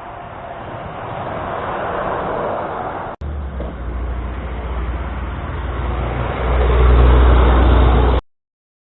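Heavy trucks and traffic passing on a highway, the noise swelling as a vehicle approaches. After a brief dropout about three seconds in, a deep rumble comes in and grows loudest near the end before the sound cuts off abruptly.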